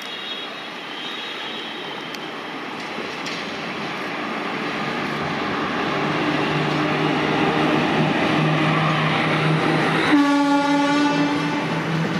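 WAG-5 electric locomotive and its passenger coaches approaching and passing, the running noise of wheels on rail growing steadily louder. Near the end the locomotive gives one horn blast of about a second and a half.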